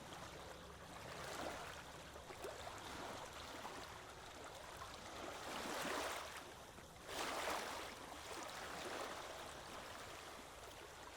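Faint washing of moving water, swelling louder twice, about six and seven and a half seconds in, like small waves coming in.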